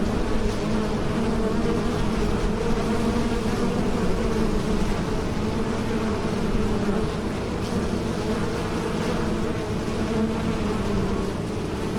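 Bees buzzing in flight: a steady, continuous drone that wavers slightly in pitch.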